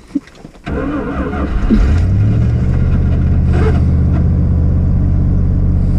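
Car engine being cranked by the starter and catching about two seconds in, rising in speed, then running steadily: a cold start in about ten-below weather.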